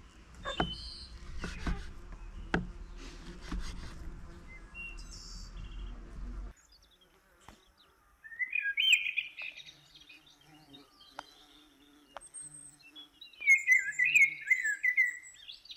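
Scattered clicks and knocks over a low rumble, cutting off abruptly about six seconds in. Then birds chirping in two warbling bursts, the second longer and the loudest sound here.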